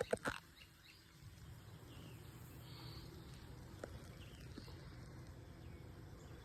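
Honeybee swarm clustered on a tire, buzzing in a steady low hum, with a few sharp clicks right at the start and faint bird chirps.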